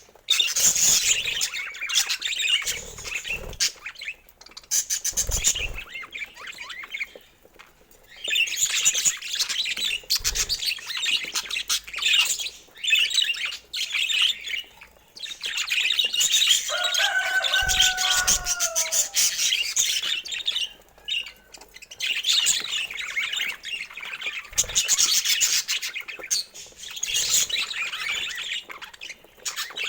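Budgerigars chattering and warbling in dense, fast chirping bouts with short pauses between them. A lower, gliding call stands out about two-thirds of the way through, and there are a few soft low bumps.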